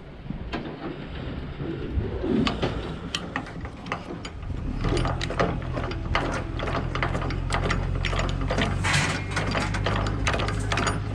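Metal ratchet clicking rapidly as cargo securement on a flatbed load is cranked tight. A steady low engine hum comes in about halfway through.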